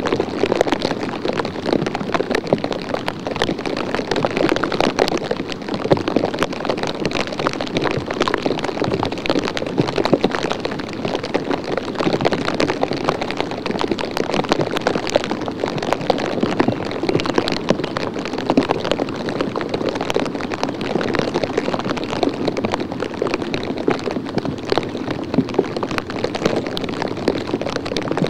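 Light rain pattering steadily: a dense, even crackle of many small drops with no pauses.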